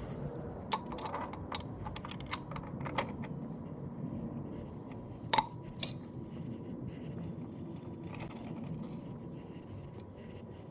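Small metal parts and tools clinking and scraping against each other while being handled: a run of light clicks in the first three seconds, then a sharp metallic clink that rings briefly about five seconds in, and another just after.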